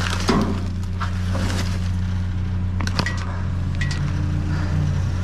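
Vehicle engine idling steadily under scattered knocks and clinks of scrap being moved about in a metal dumpster, the loudest knock shortly after the start.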